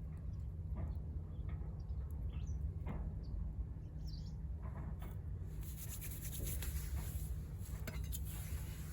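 Small wood fire burning in a VARGO Hexagon wood stove: scattered crackles and pops with a few brief squeaks from the wood, over a low steady rumble. A hiss builds up about halfway through.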